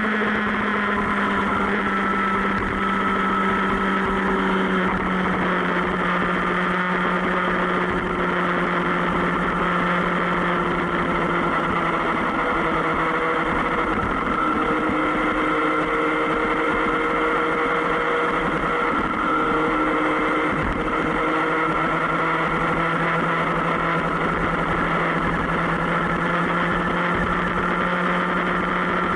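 Sport motorcycle engine running steadily at cruising speed, its note easing down a little in the first few seconds and then holding even.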